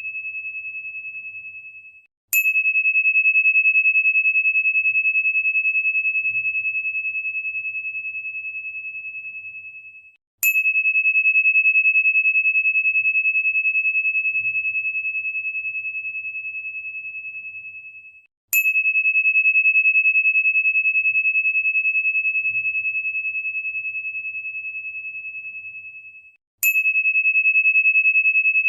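A single high, pure crystal tone struck four times, about every eight seconds. Each strike rings out and fades slowly with a slight pulsing waver before the next one.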